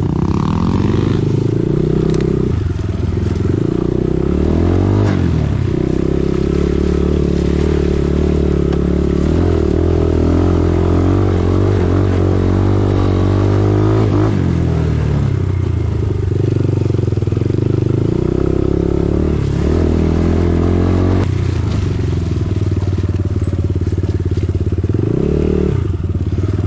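Dirt bike engine running under throttle, its revs rising and falling over and over, with a quick drop and blip of the revs near the end.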